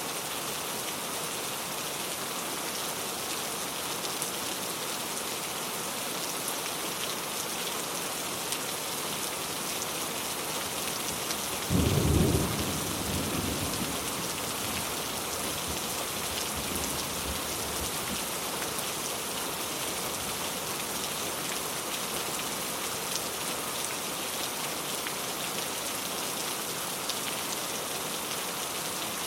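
Steady rain falling, with a single loud thunderclap about twelve seconds in that rumbles off over the next few seconds.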